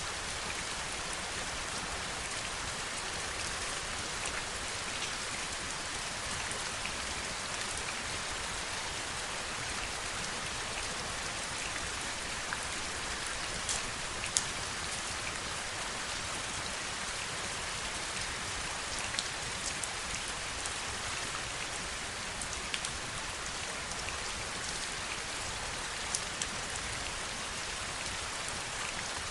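Steady heavy rain, a dense even hiss, with a few sharper single drop hits standing out now and then.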